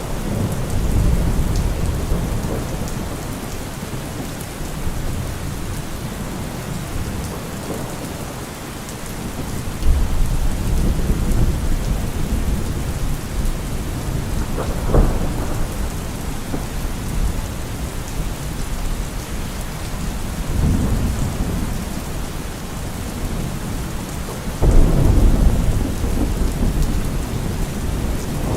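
Steady rain falling, with thunder rumbling low several times; the heaviest roll of thunder comes near the end, and a sharper crack comes about halfway through.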